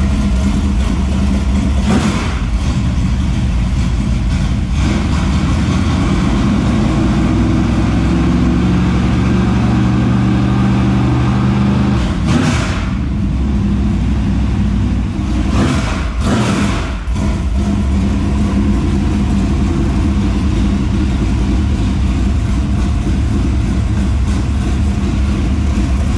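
Dirt late model race car's freshly built V8 engine idling, running at a slightly higher pitch for a few seconds around the middle, with a few short sharper bursts. It is the new engine's first run, kept going while the car is checked for leaks.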